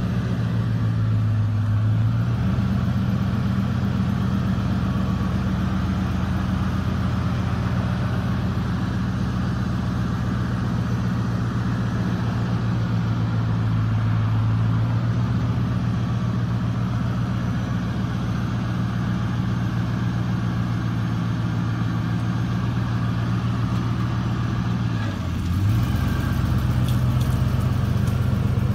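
1999 Ford F-150 pickup's engine idling steadily; near the end its pitch dips briefly and it then runs a little louder.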